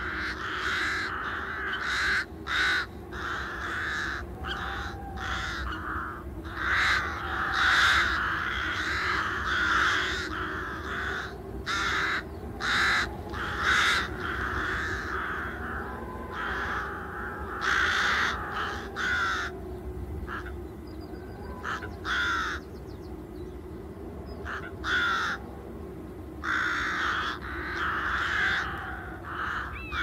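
Wild birds calling: many short repeated calls in bouts with brief pauses, several overlapping, over a faint steady low background hum.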